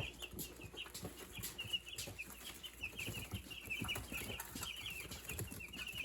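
A brood of young meat chickens peeping continuously, many short high cheeps overlapping, with a few faint knocks and rustles underneath.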